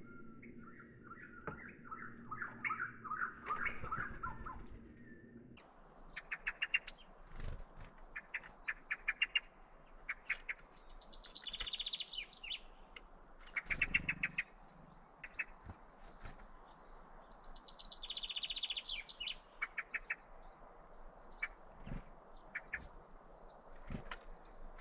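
Small birds chirping and singing. About five seconds in the sound changes abruptly to quick runs of short chirps, with two longer, higher trills.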